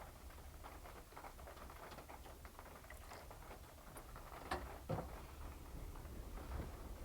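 Irregular light tapping and small clicks, with two louder knocks about four and a half and five seconds in, over a steady low rumble.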